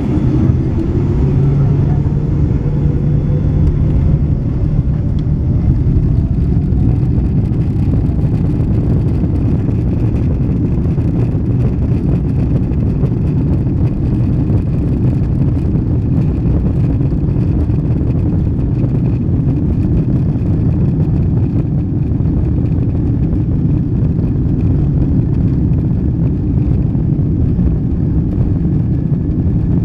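Boeing 777 jet engine and airflow noise heard inside the rear cabin during takeoff: a loud, steady, deep rumble. A faint tone climbs in pitch over the first several seconds.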